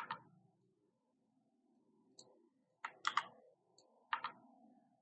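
Scattered sharp computer mouse clicks, a few at a time, with a close group near the middle.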